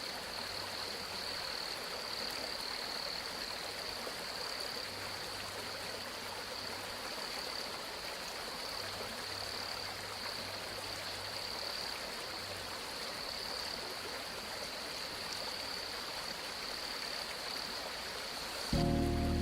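Stream water flowing steadily, with a continuous high-pitched chorus over it. Music begins near the end.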